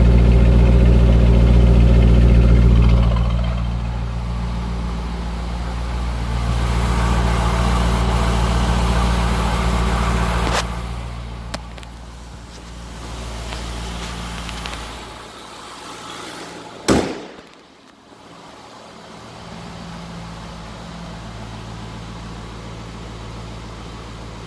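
2004 Chevrolet Corvette's V8 idling through its exhaust at a steady pitch, loud at first and quieter after about ten seconds. A single sharp knock comes about 17 seconds in.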